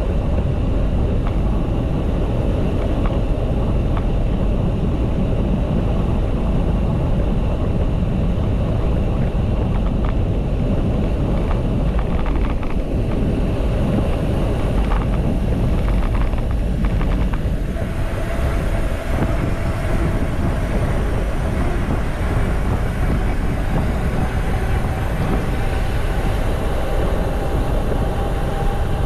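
Steady rumbling noise of a mountain bike in motion: wind buffeting the microphone and tyres running over a rough track, with a spell of rattling clicks about halfway through.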